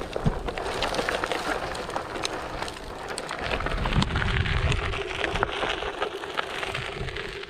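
Onewheel XR's tyre rolling over a dirt trail, a steady crunching with many small clicks from grit and pebbles, under gusts of wind noise on the microphone. A steady hum from the board's hub motor comes in about halfway through.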